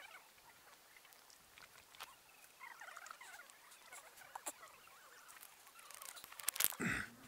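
Faint twittering chirps of small birds, with scattered light clicks and a brief louder rustle near the end.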